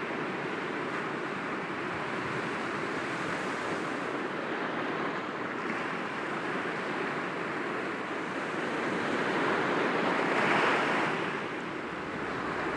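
Sea waves washing and breaking against rocks in a continuous wash, with one wave swelling louder near the end and then falling back.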